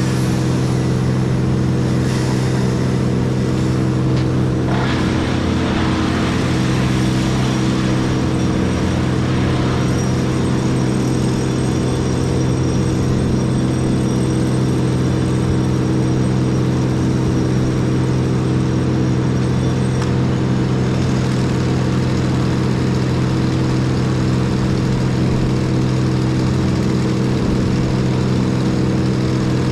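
Engine of heavy equipment running at a steady speed, a constant even hum with no change in pitch.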